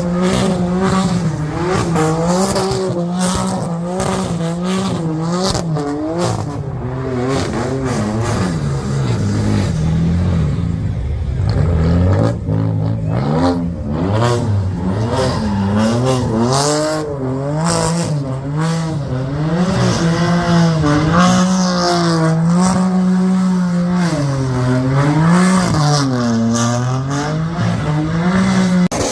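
A car engine held at high revs, its pitch rising and falling over and over as the throttle is worked, as in a burnout.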